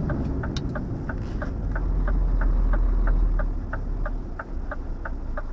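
Turn-signal indicator ticking evenly, about three ticks a second, over the low rumble of the truck's engine heard from inside the cab.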